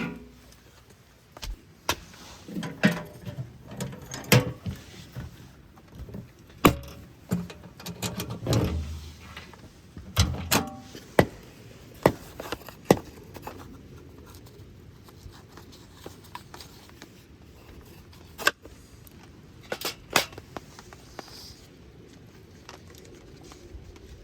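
Irregular clicks and knocks of objects being handled. They thin out after about thirteen seconds, leaving a faint steady background with a few more clicks.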